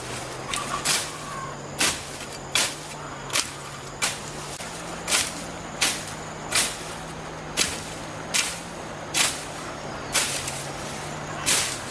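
Repeated swishing strokes, a little over one a second, over a steady low hum.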